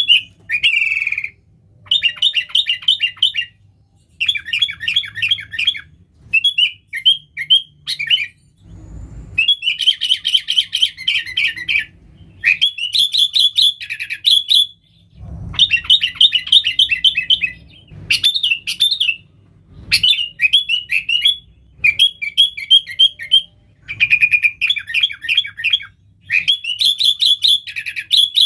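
Sooty-headed bulbul singing vigorously: a long run of rapid, loud chattering phrases, each a second or two long, with short pauses between.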